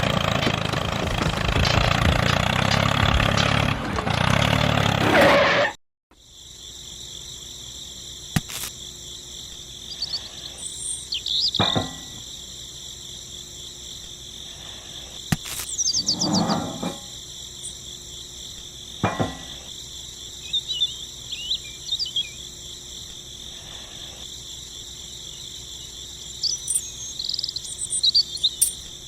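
A small engine running for about the first six seconds, then cut off abruptly. After it, a steady high chirring of insects such as crickets, with scattered bird chirps and a few sharp clicks or knocks.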